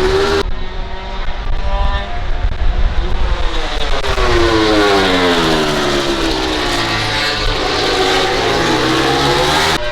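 MotoGP race bike engine, a loud high-revving four-cylinder. Its note falls for about three seconds as the bike slows, then climbs again as it accelerates.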